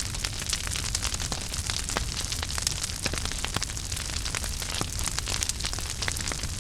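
Wood fire in a fireplace burning steadily: constant crackling and popping over a low rumble and hiss.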